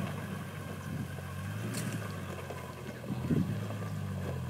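Toyota Land Cruiser 80 Series engine running steadily at low revs as the four-wheel drive crawls slowly over rutted clay, with a soft thump about three seconds in.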